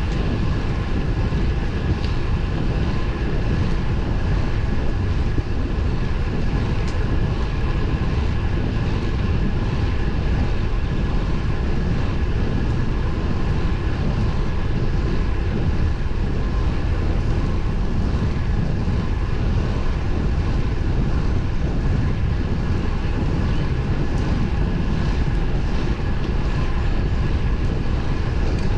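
Steady rush of wind and road noise picked up by a camera riding on a road bike in motion, heaviest in the low rumble, with a faint steady hum above it.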